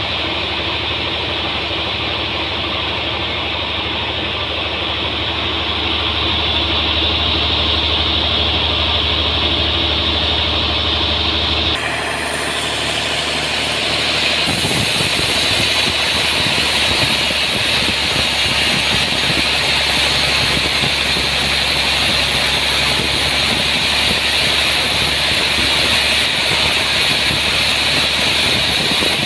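Sawmill running while sawing a large trembesi (rain tree) log: a loud, steady machine sound. About twelve seconds in the sound shifts, and from about fourteen seconds it turns louder and hissier, with much more high-pitched noise.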